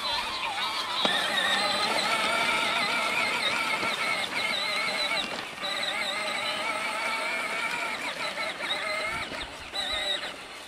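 Electric drive motor of a child's ride-on John Deere toy tractor whining under way, its pitch wavering continuously as the load changes, with a short dip about halfway through.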